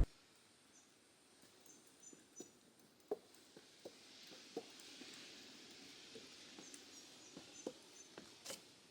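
Quiet outdoor ambience with faint, short high-pitched chirps, some in pairs, and scattered soft ticks.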